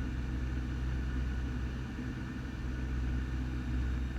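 Cessna 172's piston engine and propeller droning steadily, heard inside the cockpit during an instrument approach.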